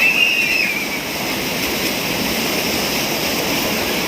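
Steady rushing and churning of water in an artificial wave pool, with a high, drawn-out squeal in the first second.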